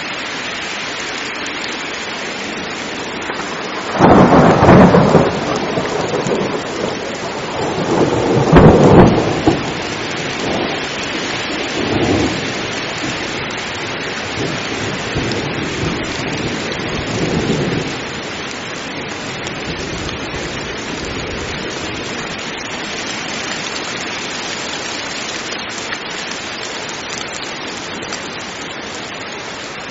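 Heavy rain falling steadily through a thunderstorm. A loud thunderclap about four seconds in and a second, louder one about eight seconds in roll on into rumbling that fades out by about eighteen seconds.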